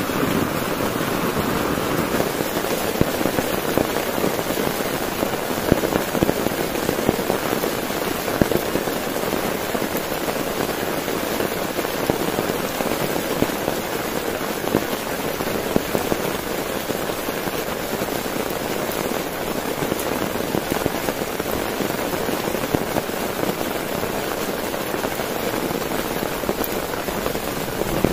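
Heavy rain falling on a tent, a steady dense patter of many small drops with no let-up.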